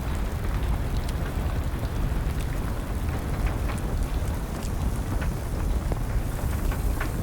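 Wood fire crackling with scattered sharp pops over a steady low rumble, with rain falling.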